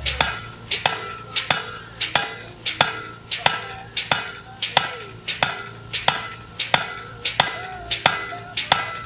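Manual post driver being slammed down over and over onto a fence post, driving it into the ground: sharp ringing clangs at a steady pace of about three every two seconds.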